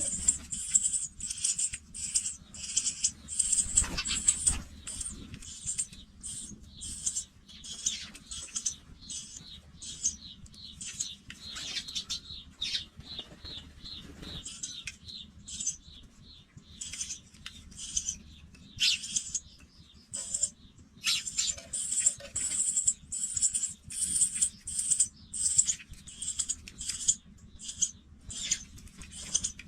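Pipit nestlings calling in the nest: a continuous run of short, high-pitched cheeps, several each second, with a low bump about four seconds in.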